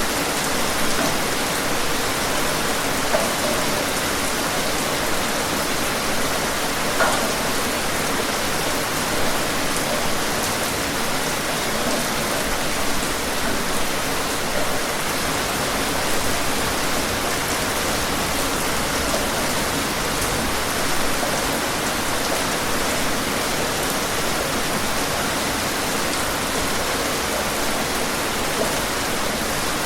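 Steady rain falling, an even hiss with the odd louder drop standing out.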